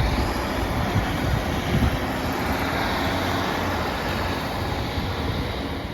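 Train running through the station close by: a steady rumble with rail and wheel noise, easing off near the end.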